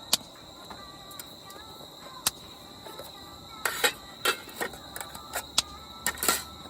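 A cricket trilling steadily on one high note, with a scattering of sharp knocks and clicks, several close together in the second half.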